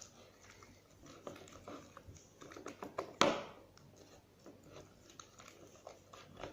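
Homemade glue slime being worked: scattered small sticky clicks and crackles, with one louder noise about three seconds in.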